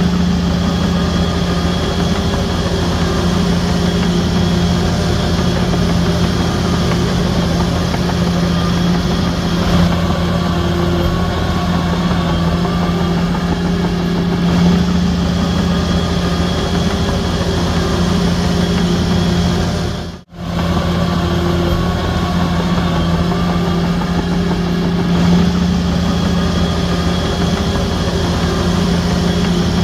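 Heavy diesel engine of an earthmoving machine running steadily with a strong low hum. The sound cuts out for an instant about two-thirds of the way through, then carries on the same.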